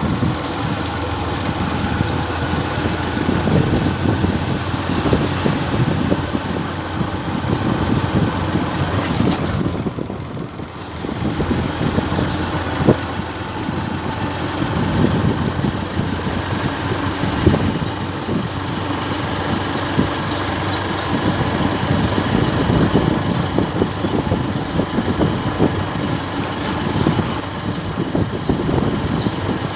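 A motor vehicle driving, with steady engine and road noise that dips briefly about ten seconds in.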